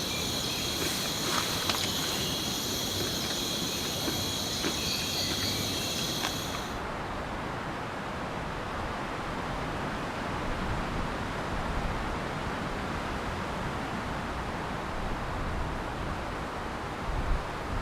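A forest insect chorus buzzing steadily in several high pitches over a steady hiss; about seven seconds in the insects cut off abruptly, leaving only the steady hiss.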